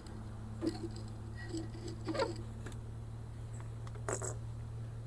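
A few light clicks and scrapes of small bolts and engine parts being handled during reassembly of a Briggs & Stratton lawnmower engine, over a steady low hum.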